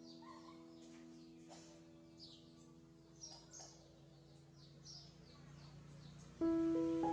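Faint, high chirps of a baby bird: short calls, each sliding downward, repeated about once or twice a second over the fading notes of background music. The music comes back loudly near the end.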